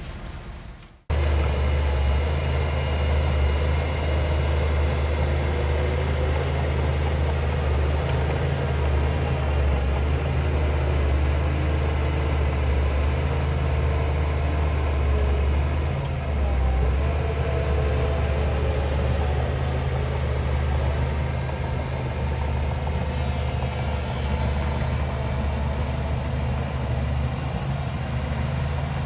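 Heavy diesel engine of an earthmoving machine running steadily with a deep low drone. It starts abruptly about a second in.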